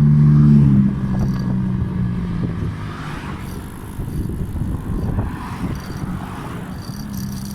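A motor vehicle's engine hum passing close by, loudest at the start and fading away over about three seconds, with another engine hum coming up faintly near the end.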